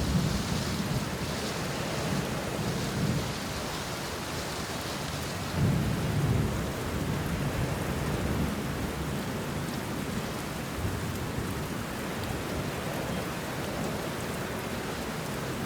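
Steady rain falling on banana leaves and bushes, with thunder rumbling in low swells near the start and again about six seconds in.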